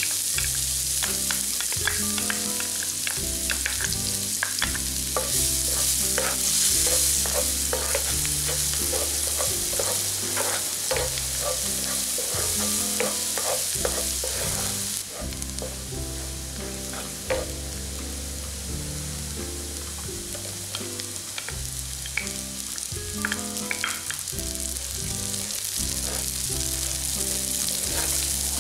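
Minced garlic sizzling in hot oil in a nonstick frying pan, with a wooden spatula scraping and tapping against the pan as it is stirred. The sizzle drops a little about halfway through.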